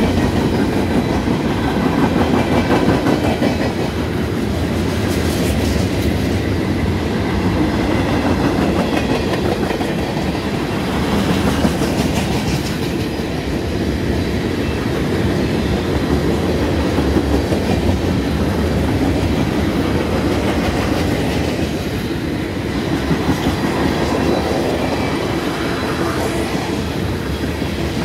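Freight cars of a mixed freight train (covered hoppers, boxcars and tank cars) rolling past close by: a steady rumble of steel wheels on rail with rhythmic clickety-clack over the rail joints.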